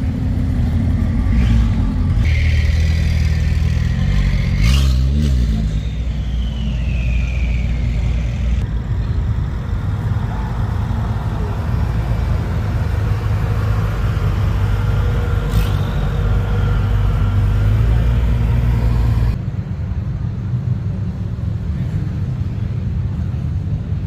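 High-performance car engines running and revving, with a few sharp clicks. The engine note changes abruptly several times.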